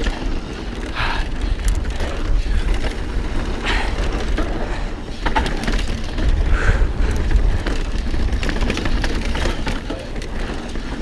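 Mountain bike riding over a dirt and rock trail: tyres rolling and rattling over rough ground with scattered clicks and knocks from the chain and bike, and wind rumbling on the camera microphone.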